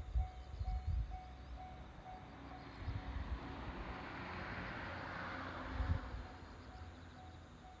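Diesel train on the Yodo Line passing near the level crossing: its sound rises, is loudest about halfway through, then fades away. A crossing warning bell rings steadily about twice a second throughout, with crickets chirping.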